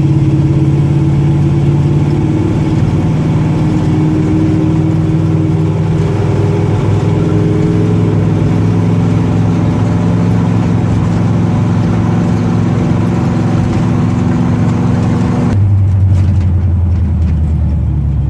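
Engine of a 1963 Chevy C-10 pickup pulling the truck along under way, its note slowly rising in pitch as it gains speed, then dropping suddenly to lower revs near the end.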